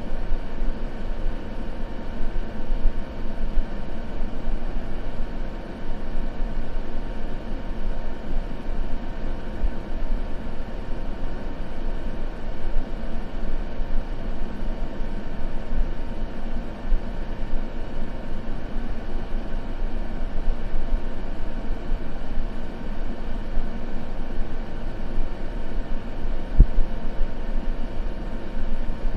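Continuous white-noise ambience, a steady rushing hiss heavy in the low end. One soft low knock comes near the end.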